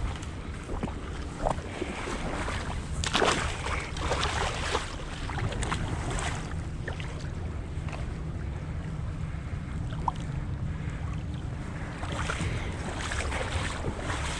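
Water sloshing and splashing in irregular bursts, strongest about three seconds in and again near the end, over a steady low rumble of wind on the microphone.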